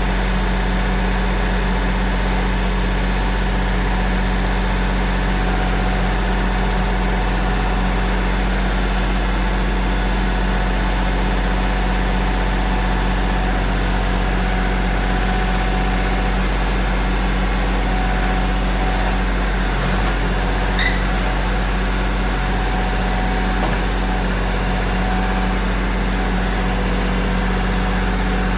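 Tractor engine running steadily at a constant speed, with one brief high squeak about two-thirds of the way through.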